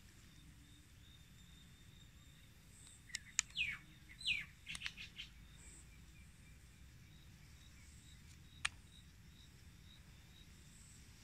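A bird calling a few seconds in: two quick downward-sliding calls followed by a few short notes. A single sharp click comes a few seconds later.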